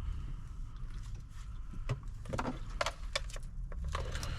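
Scattered small clicks and light rattles of parts and wiring being handled during a car stereo install, over a steady low hum.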